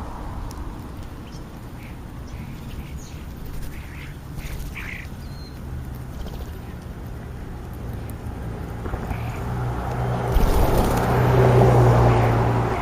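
A few short bird calls, then a vehicle passing, its low hum and road noise growing louder near the end.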